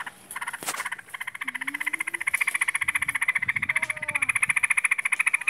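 Trucukan (yellow-vented bulbul) giving its long 'ngaruda' call: a fast, even rattling trill of many quick pulses that starts shortly after the beginning and grows louder about two seconds in.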